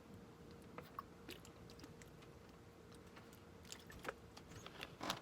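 Faint, scattered mouth noises close to the microphone: small clicks and smacks, with a louder cluster near the end.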